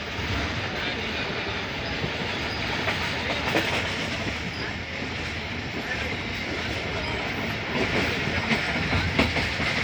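Passenger train running at speed, heard on board through an open window: a steady rumble of wheels on rails mixed with rushing air. The wheels clickety-clack over the rail joints, with a few sharp clicks in the second half.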